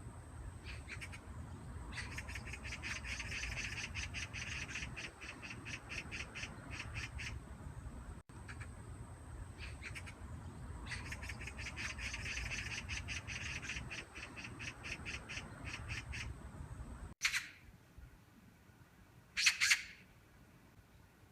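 Magpie giving a rapid chattering rattle in two long bouts, each many quick harsh notes in a row. After a cut, two short, loud harsh calls.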